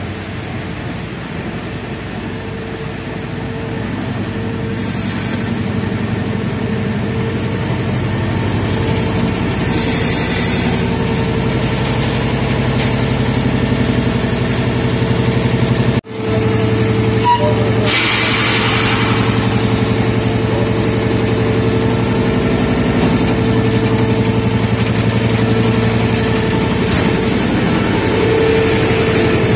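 Train running with a steady engine drone, growing louder over the first ten seconds. There is a brief dropout at a cut about 16 seconds in, and then the drone carries on.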